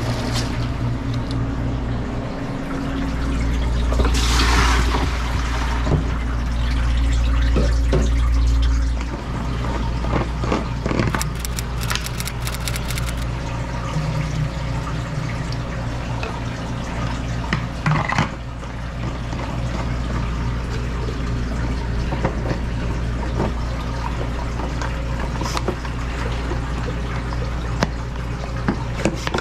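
Tap water running into a plastic container in a stainless steel sink, louder for the first third and then stopping, followed by liquid sanitizer being poured into a plastic pump sprayer. A steady low hum runs underneath.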